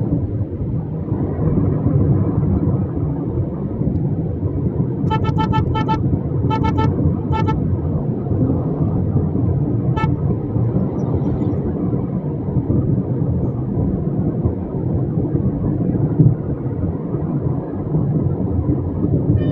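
Steady road and traffic rumble with vehicle horns beeping: a quick run of short honks about five to seven seconds in, and a single one at about ten seconds.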